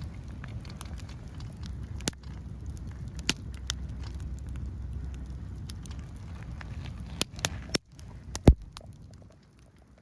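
Firewood burning and crackling, with scattered sharp pops over a low steady rumble. The loudest pop comes about eight and a half seconds in.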